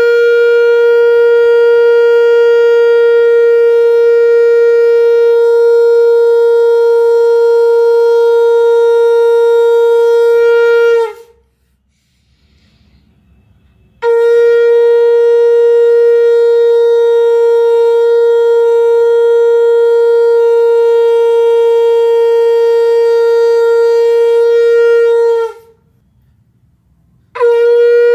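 Conch shell (shankh) blown in long, loud blasts of about eleven seconds each, every one a single steady note with bright overtones that dips slightly in pitch as it ends. One blast ends about eleven seconds in, a second runs from about fourteen seconds to about twenty-five and a half, and a third starts near the end, with short breath pauses between them.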